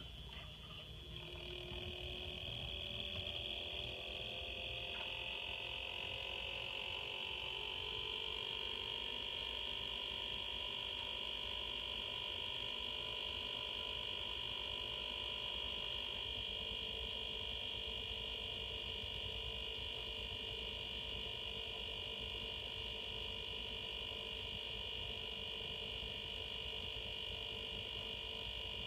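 Swiftech water-cooling pump running with a steady, high-pitched whine and a few lower hums, its pitch and loudness rising over the first few seconds and then holding steady: a noise that is concerning for this pump.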